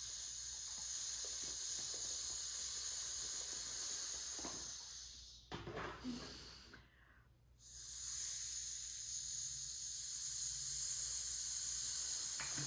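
A person making a long, steady "shhh" sound. They stop about halfway through to take a breath, then make a second long "shhh".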